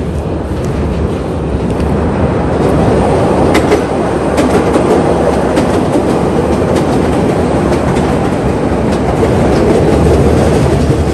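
Chicago rapid-transit train passing close by: a loud, steady rumble with wheels clacking over the rail joints, building over the first few seconds and then holding.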